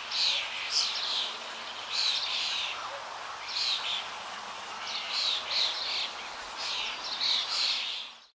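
Songbirds chirping in short, quick phrases that repeat every second or so over a steady background hiss; the sound cuts off near the end.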